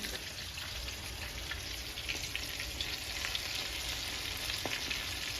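Meat frying in a pan: a steady sizzle with fine, constant crackling, and one light tap about four and a half seconds in.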